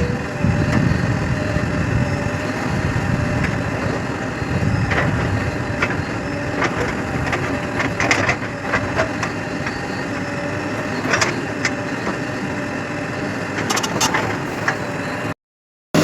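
Diesel engine of a JCB 3DX backhoe loader running steadily while it loads mud, with scattered knocks and clatters over the drone. The sound cuts out completely for about half a second near the end.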